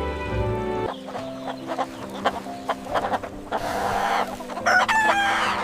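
Chickens clucking, with many short calls and a run of stepping, falling calls near the end, over soft background music.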